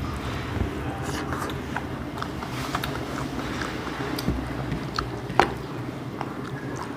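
Close-up eating sounds: chewing and smacking of meat and rice, with scattered small mouth clicks and one sharper click about five and a half seconds in, over a steady low hum.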